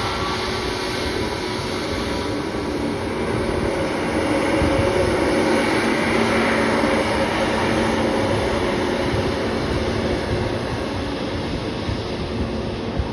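Jet airliner engines running as an aircraft passes, a steady rumble with a faint held whine that grows a little louder about four seconds in and eases off toward the end.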